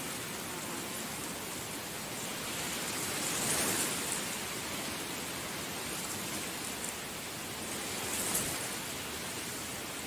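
Heavy rain falling steadily, swelling briefly twice: about a third of the way in and again near the end.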